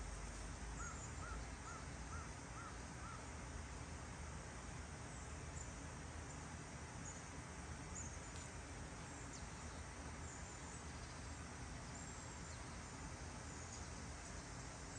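Faint bird calls over a steady background hiss: a run of six short, evenly spaced call notes about a second in, and thin high chirps here and there throughout.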